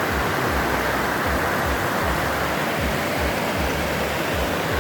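Waterfall and creek water rushing in a steady, even hiss.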